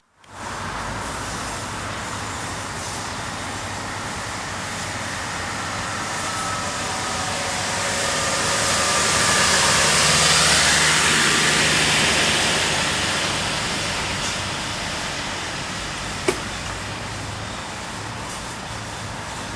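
Steady road traffic noise that swells to its loudest about halfway through as a vehicle passes, then fades again. A single sharp click comes near the end.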